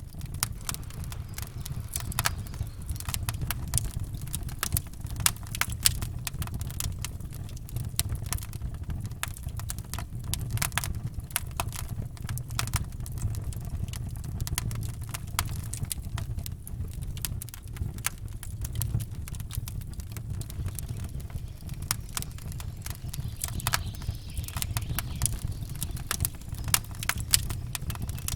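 Campfire crackling, with irregular sharp pops and snaps throughout over a steady low rumble.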